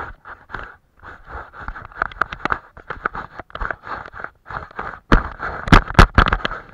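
Painting strokes on paper, a scratchy scraping in short repeated strokes with small clicks, and a few louder sharp knocks about five to six seconds in.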